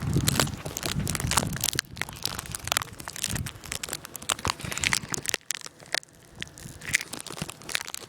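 Dense, irregular crackling and crunching with many sharp clicks, close to the microphone.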